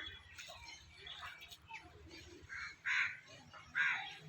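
Harsh bird calls, the two loudest about three and four seconds in.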